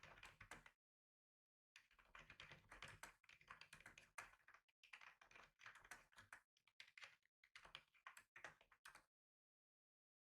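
Typing on a computer keyboard: quick runs of keystrokes that stop just under a second in, start again about a second later and keep going until about a second before the end.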